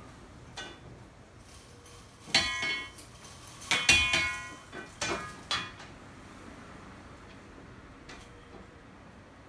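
Slatted window blind clattering as strong gusts of wind blow it against the window, with a ringing, clinking rattle. Three bursts come about two, four and five seconds in, then only a few faint ticks.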